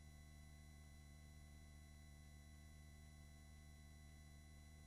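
Near silence: a faint, steady electrical hum of several fixed tones, the line noise of a headset intercom feed while the microphone is gated off.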